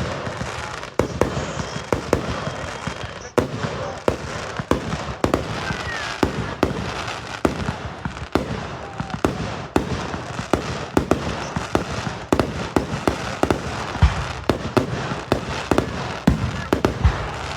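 Fireworks display: a rapid run of sharp bangs from aerial shells, often several a second, over a continuous crackle, easing off at the very end.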